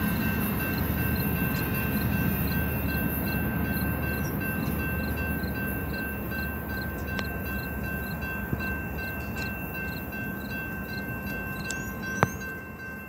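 BNSF manifest freight train's cars rolling past on curved track, a steady rumble that slowly fades as the train draws away, with a thin steady high ringing over it. A sharp click sounds once near the end.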